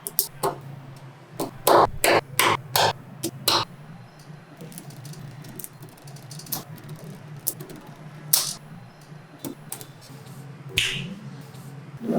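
Small magnetic balls snapping together as they are placed: a quick run of sharp clicks in the first few seconds, then a few single clicks spread out, over a low steady hum.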